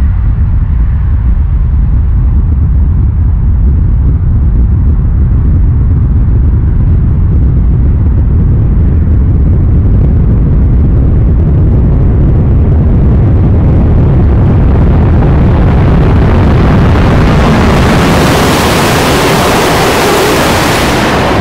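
Deep rumble from the tunnel as an ICE 3 high-speed train approaches inside it. About sixteen seconds in, a rising rush of air and rail noise builds as the train comes out of the portal and passes at high speed, loudest near the end.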